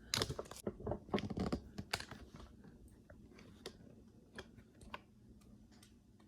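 Light clicks and knocks from a flexible-neck phone holder being bent and adjusted, a quick flurry over the first two seconds or so, then a few scattered single clicks.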